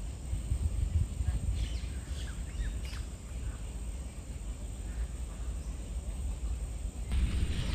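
A few short, high bird chirps between about one and a half and three seconds in, over a steady low rumble of outdoor background noise that grows louder near the end.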